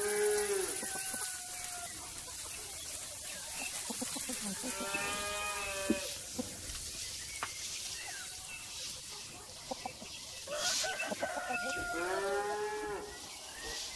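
Cattle mooing: three separate calls, at the start, about five seconds in and near the end, each lasting about a second and rising then falling in pitch.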